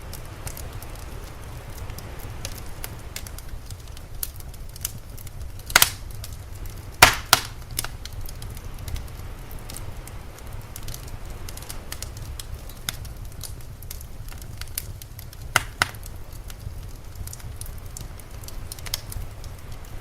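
Wood fire crackling, with scattered sharp pops; the loudest come about 6 and 7 seconds in and again near 16 seconds. A low steady rumble runs underneath.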